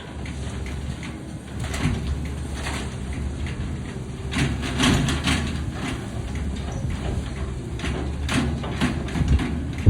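Grapple truck's diesel engine running steadily while the grapple works a small debris pile, with irregular scraping, crunching and knocks. The knocks bunch up about two seconds in, near the middle and near the end.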